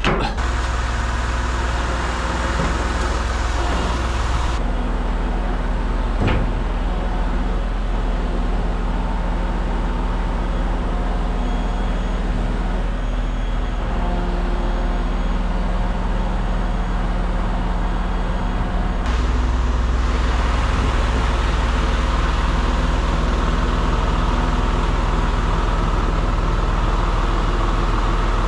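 Crane truck's engine running steadily, its note changing a couple of times.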